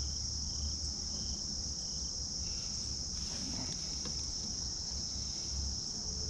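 Crickets chirping in a steady, unbroken chorus, over a low rumble.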